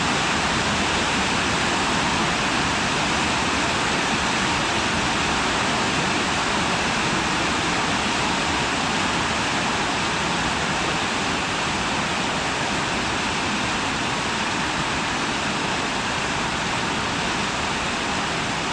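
Steady rain pouring down: an even, unbroken hiss.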